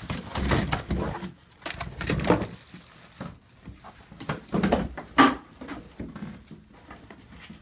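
Rustling and knocking of packaging and plastic vacuum cleaner parts being handled while unpacking, in several irregular bursts.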